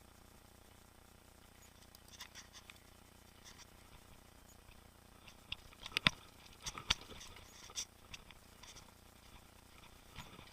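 Mountain bike rattling over rough trail: scattered clicks and ticks, with a few sharp knocks about six and seven seconds in.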